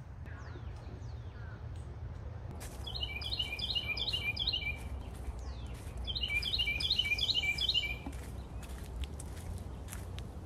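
A songbird singing two bursts of quickly repeated chirps, each about two seconds long and a second apart, over a steady low rumble.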